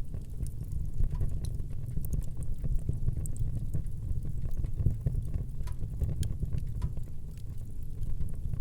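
Wood fire burning, with a low steady rumble and irregular sharp crackles and pops scattered throughout.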